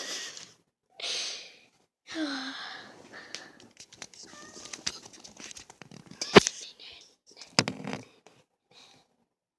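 Kittens making breathy little cries and short falling mews in the first few seconds, then rustling and scattered clicks of play, with two sharp clicks about six and a half and seven and a half seconds in.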